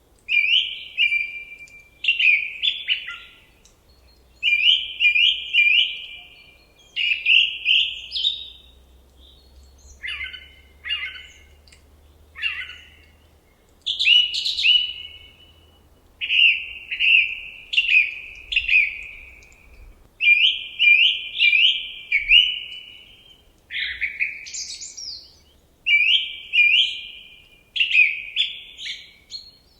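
A songbird singing loud, clear phrases of two or three quick downslurred notes, repeated every second or two with short pauses, over a faint low background rumble.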